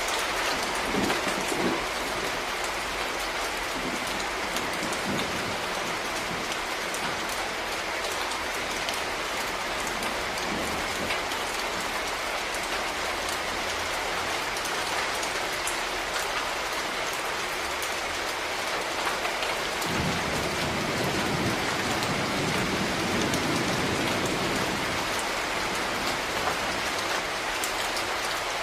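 Steady rain falling and pattering on a surface, an even hiss of many drops. A low rumble of thunder swells in about two-thirds of the way through and fades a few seconds later.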